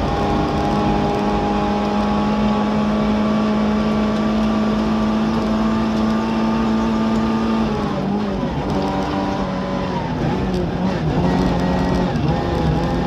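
In-car sound of a Skoda Favorit Group A rally car's engine held at steady high revs under full throttle. About eight seconds in the revs fall and then rise and fall several times as the car slows.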